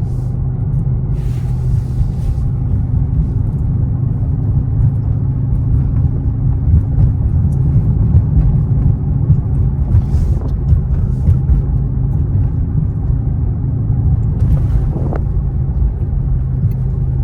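A Dodge Charger Hellcat's supercharged V8 running steadily through its stock exhaust, mid mufflers still in place, a low even rumble that swells slightly in the middle.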